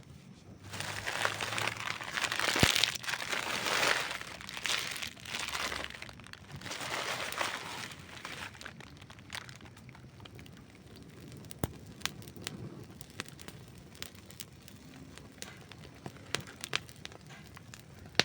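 Campfire crackling: several seconds of dense crackle and hiss that swells and fades, then sparser sharp pops for the rest.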